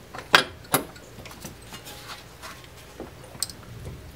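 Two sharp metal knocks less than half a second apart, then a couple of faint ticks near the end: metal parts clinking as the CV axle's outer end is worked free of the wheel hub and steering knuckle.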